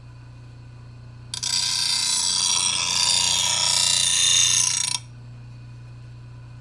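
Grinder stone grinding the cutting edge of a steel lawnmower blade: a harsh, loud hiss that starts about a second in, lasts about three and a half seconds, and cuts off sharply as the blade is lifted away. A steady low hum runs underneath.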